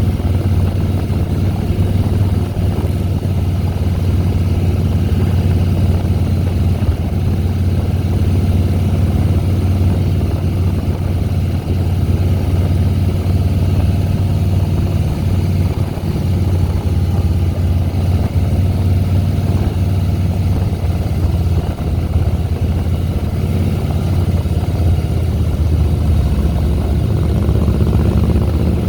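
Harley-Davidson Softail Deluxe's air-cooled V-twin engine running steadily while riding, a low even engine note with little change in revs.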